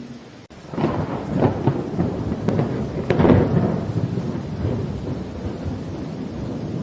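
Thunder rumbling and crackling over steady rainfall, starting about a second in, loudest about three seconds in, then rolling away.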